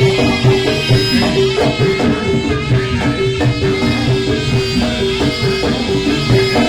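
Live gamelan-style music accompanying a jaranan (kuda lumping) horse-dance: a short melodic figure of pitched notes repeating over steady percussion.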